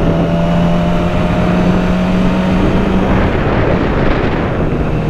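Yamaha R6's inline-four engine running under way, its note rising slightly and then dropping away about three seconds in, under a loud rush of wind noise.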